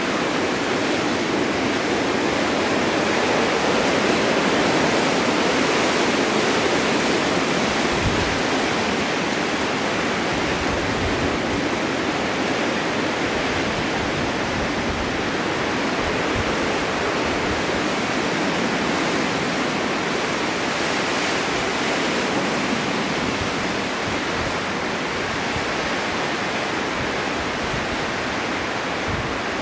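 Snowstorm wind blowing steadily, an even rushing noise that swells slightly a few seconds in, with brief low rumbles now and then.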